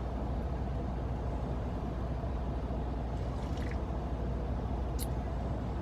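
Semi truck's diesel engine idling steadily, a low hum heard from inside the cab, with one brief click about five seconds in.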